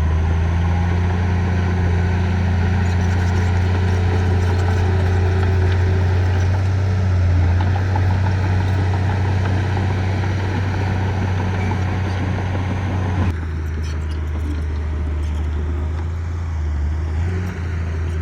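A heavy construction machine's engine running steadily with a deep, even hum. About thirteen seconds in, the higher-pitched noise drops away abruptly while the low hum carries on.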